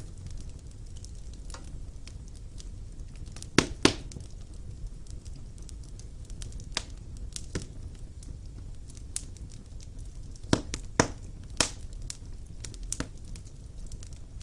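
Wood fire burning in a fireplace: a steady low rumble of flames with scattered sharp crackles and pops, the loudest coming in two clusters, around four seconds in and again around eleven seconds in.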